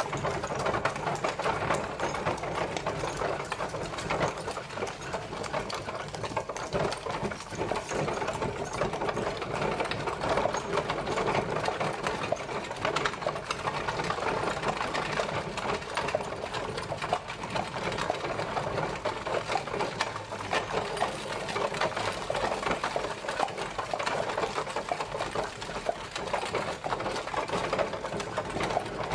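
Horse-drawn carriage travelling, its wheels and body giving a dense, steady, rapid rattling clatter.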